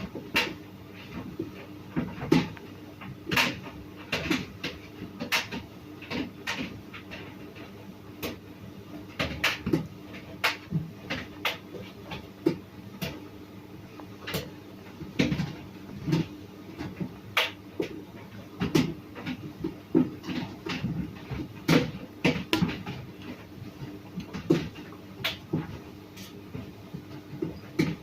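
Tricity Bendix TM220W tumble dryer running: a steady hum with irregular knocks and clatters from the drum, one or two a second.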